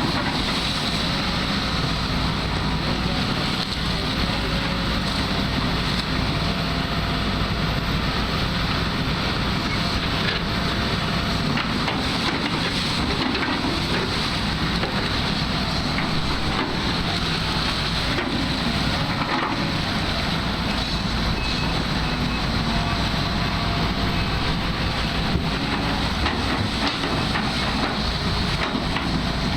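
Excavator engine running steadily while it works, with wind noise on the microphone.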